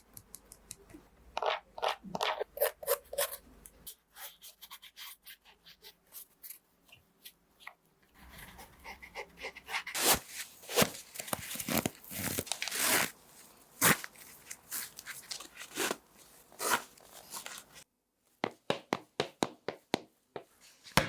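Hands unboxing a pair of basketball shoes: packaging crinkling, rustling and tearing, with scrapes and rubs. A short break near the end is followed by a run of quick clicks and taps.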